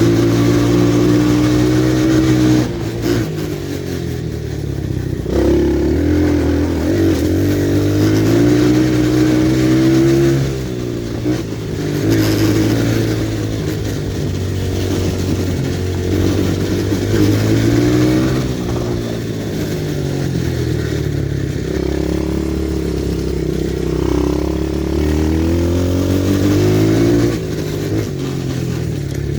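Pit bike engine being ridden, its revs rising and falling over and over as the throttle is worked, with the revs dropping away sharply about three seconds in, around ten seconds in and near the end.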